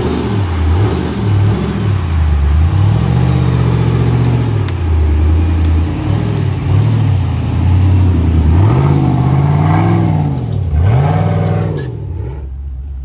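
An off-road truck's engine revving up and down in repeated throttle bursts as it crawls over rock, with the pitch climbing and falling several times. The engine settles and drops away near the end.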